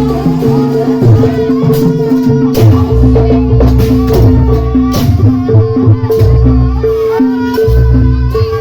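Javanese jaranan dance music: a gamelan-style ensemble with low drum pulses, sustained gong-like tones alternating between two pitches, and a wavering melody line above, with rattling percussion.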